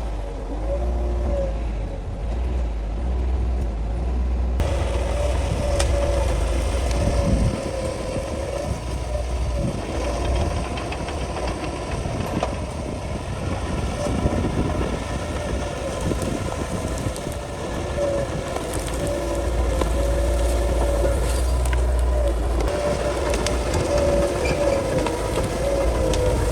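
Crawler bulldozer's diesel engine running steadily under load, with a wavering whine and frequent clanks and knocks from the working machine as it pushes through brush.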